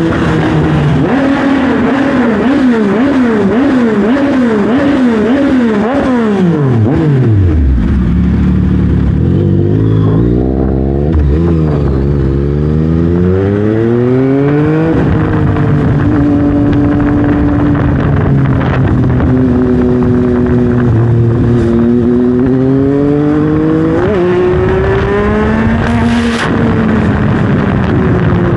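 2021 Yamaha MT-09 three-cylinder engine through a full Dominator exhaust while riding. The revs swing up and down quickly for several seconds, drop to a low idle about seven seconds in, then climb again as the bike pulls away. After that they hold fairly steady with slow rises and falls and a short sharp blip near the end.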